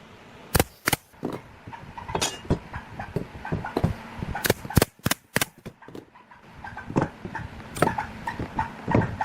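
An irregular series of sharp knocks and clicks, with a cluster of the loudest strikes around the middle.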